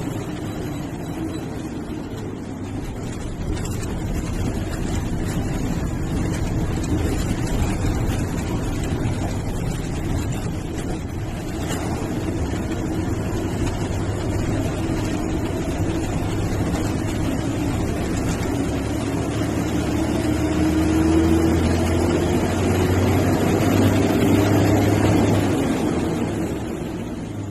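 MSRTC bus diesel engine running with steady road noise; the engine note rises as the bus accelerates about two-thirds of the way in, then eases off near the end.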